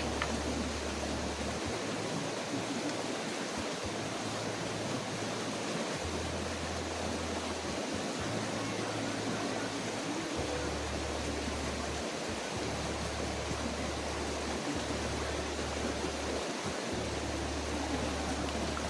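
Small stream flowing, a steady rush of running water.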